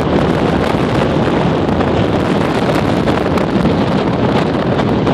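Gale-force wind of around 60 mph blowing across the camera microphone: a loud, steady rush of noise that never lets up.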